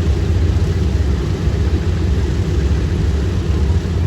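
Boeing B-17 Flying Fortress's four Wright R-1820 Cyclone radial engines running, a loud, even low drone that holds steady throughout.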